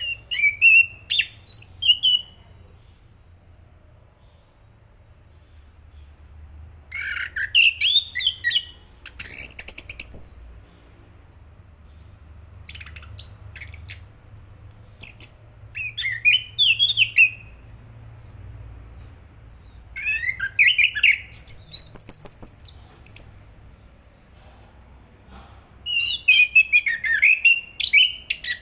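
Chestnut-capped thrush singing in short bursts of quick, sliding chirps and warbles, some reaching high thin notes, with pauses of a few seconds between phrases.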